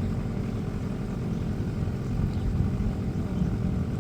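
The engine of a small canal cruiser, a Mainland 20, running steadily: a low, even rumble.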